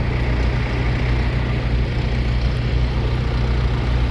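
Tractor engine running steadily, a constant low hum, while pushing hay bales into a trailer.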